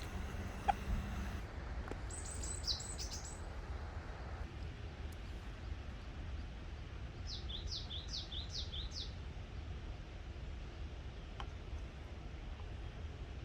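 A songbird singing two quick runs of high, falling chirp notes, one a couple of seconds in and one about halfway, over a steady low outdoor rumble.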